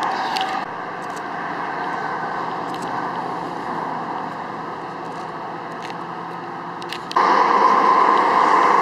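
Steady rush of highway traffic, growing suddenly louder about seven seconds in.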